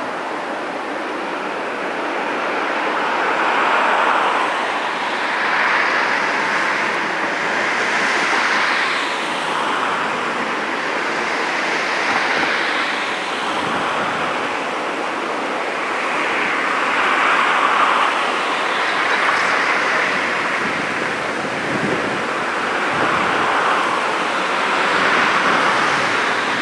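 Wind buffeting the microphone: a rushing hiss that swells and fades every couple of seconds.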